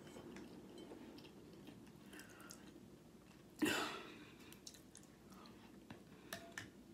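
Faint, close-up chewing of soft food, boiled egg topped with yogurt, with small wet clicks. One louder, brief mouth noise comes about three and a half seconds in.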